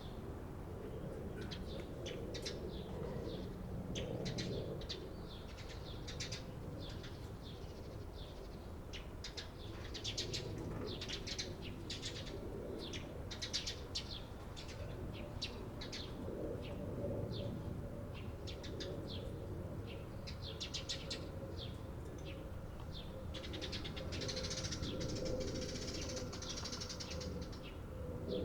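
Eurasian tree sparrows chirping, many short sharp chirps in quick irregular runs, over a low steady background rumble.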